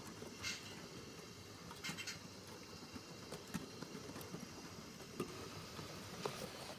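7mm-scale model train running on the layout's track: a faint steady rumble with scattered sharp clicks.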